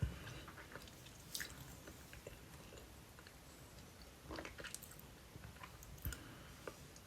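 A person chewing and biting pizza close to the microphone: scattered crunches and small wet mouth clicks. A dull knock comes right at the start and another about six seconds in.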